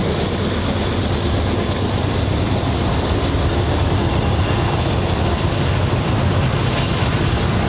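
BNSF double-stack intermodal train's loaded container well cars rolling steadily past, a loud continuous noise of steel wheels on rail.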